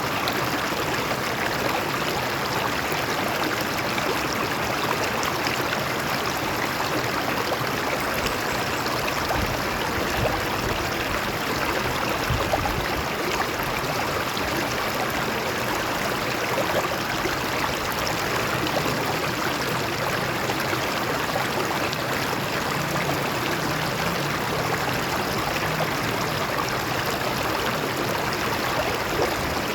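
A stream rushing and splashing over rocks in a steady, even flow.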